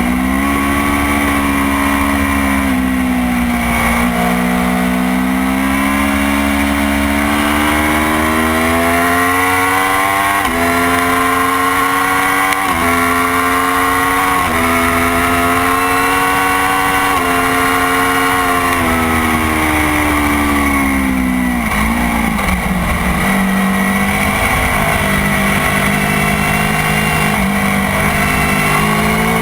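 Motorcycle engine on track under hard riding: its pitch climbs, jumps in abrupt steps at gear changes, then falls away as the bike slows, and holds at a lower, steadier note near the end.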